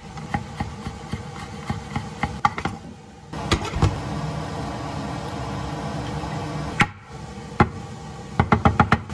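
A kitchen knife chopping garlic on a wooden cutting board in a few sharp knocks, then chopped onion and garlic sizzling steadily in a frying pan for about three seconds. Near the end, a few knocks and a quick run of sharp taps as a can of tomatoes is handled on the board.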